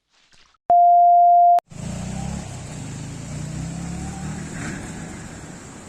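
A single loud electronic beep, one steady pure tone lasting just under a second, cut off abruptly. It is followed by a steady low rumble with hiss, like a running vehicle heard outdoors.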